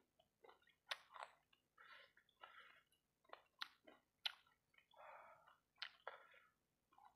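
Close-up mouth sounds of someone eating fried rice balls coated in sauce: wet chewing and smacking with sharp little clicks, irregular, a few a second.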